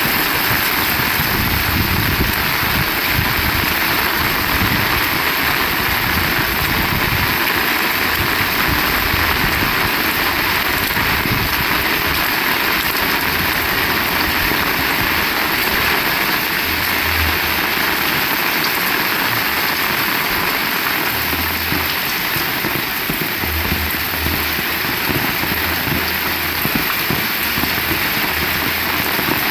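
Heavy rain falling steadily, a dense, even hiss, with low rumbles of wind buffeting the microphone now and then.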